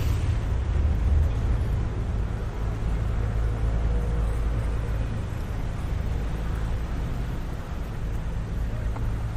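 City traffic ambience: a low, steady engine rumble from a nearby motor vehicle over a general hiss of street noise. The rumble eases about halfway through and comes back near the end.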